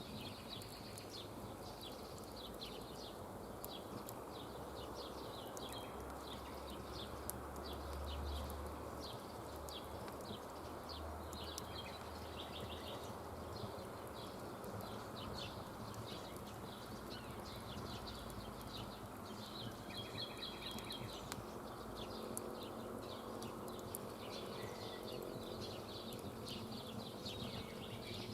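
Wood campfire crackling: frequent small, sharp pops over a steady low rush.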